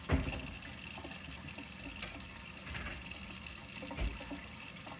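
Kitchen tap running steadily into a sink, with a short low knock right at the start and another about four seconds in.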